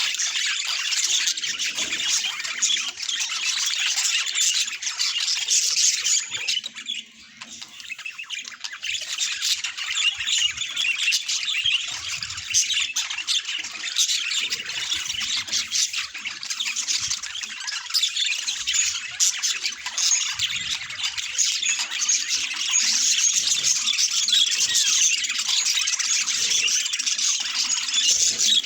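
Budgies chattering, chirping and squawking without a break, with a brief lull about seven seconds in.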